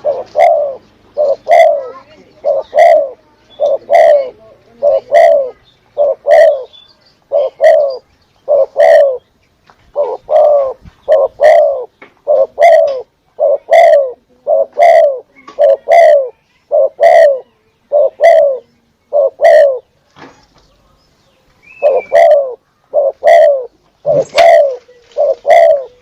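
Spotted dove (tekukur) cooing, a low coo repeated about once a second, with a short break near the end.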